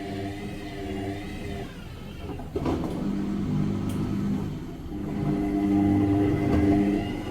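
Washing machine running: its motor hums in several steady tones that shift as the drum turns, with a single knock about two and a half seconds in and the hum swelling louder near the end.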